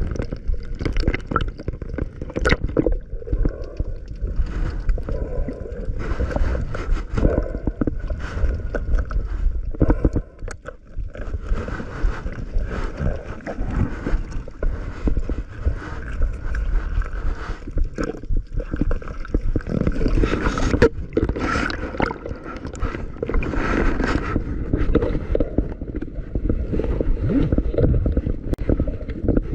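Water gurgling and sloshing around a camera in the sea, with irregular knocks and scrapes and a low rumble.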